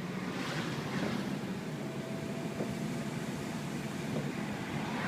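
Turbocharged Saab 9-5 engine running, heard through open windows, with its blow-off valve closed so boost is not vented. A rushing hiss swells about half a second in and again near the end.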